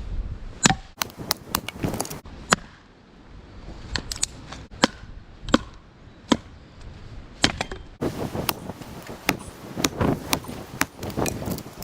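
Repeated sharp chopping strikes, irregularly spaced about half a second to a second apart, with the background changing abruptly about eight seconds in.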